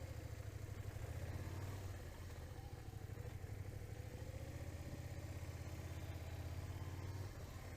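Motorcycle engine running with a steady, low pulsing exhaust note, picked up by a helmet camera.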